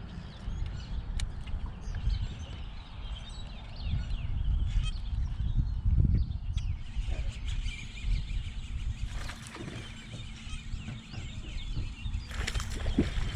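Birds calling, many short chirps over a constant low rumble.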